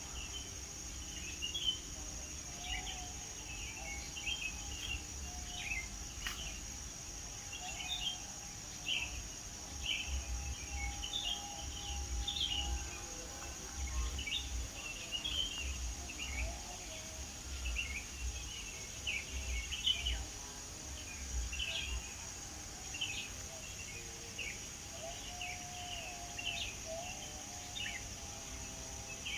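Several birds chirping and twittering in quick, overlapping short notes, over a steady high insect drone and a low rumble.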